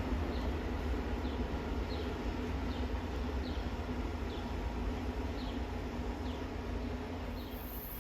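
Low rumble of a subway train fading slowly, with a short high chirp repeating about every 0.7 seconds. A very high hiss comes in near the end.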